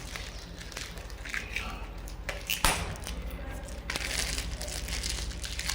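Handling noise from work on washing-machine parts: scraping and crackling, with one sharp crack about two and a half seconds in, over a steady low hum.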